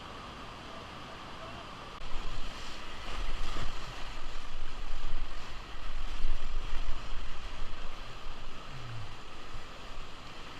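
River water rushing around a small inflatable boat, with wind buffeting the microphone. It gets louder and more uneven about two seconds in.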